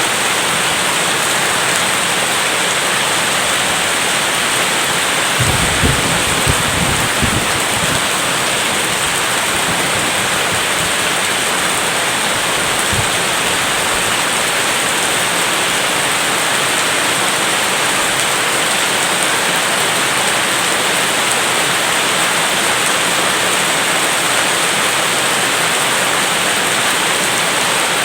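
Steady heavy rain, with a short low rumble of thunder about six seconds in and a fainter one near thirteen seconds.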